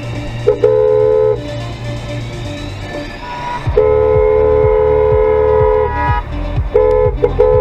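Car horn honking: a blast of about a second, then a long held blast of about two seconds, then several short quick honks near the end.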